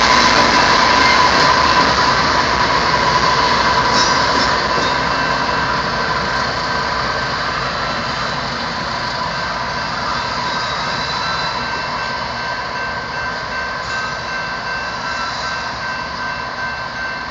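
Loaded coal train rolling on the rails, a steady rumble of wheels with a thin steady wheel squeal, fading gradually as the train pulls away.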